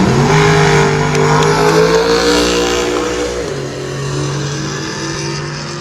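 Car engine accelerating hard at a drag strip. Its pitch drops at a gear change right at the start and again about three and a half seconds in, and climbs in between, while the sound fades.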